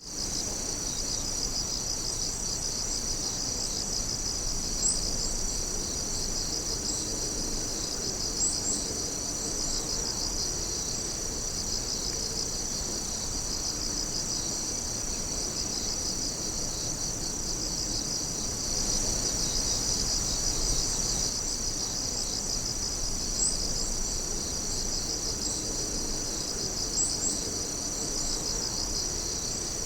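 Dense night chorus of singing insects: steady high-pitched trilling, the lower voices pulsing fast and evenly, with a brief higher chirp four times.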